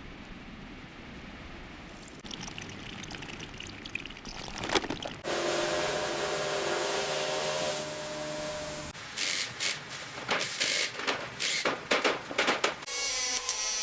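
Pressure washer spraying water, a steady loud hiss with the pump's hum under it, followed by a series of short bursts of spray.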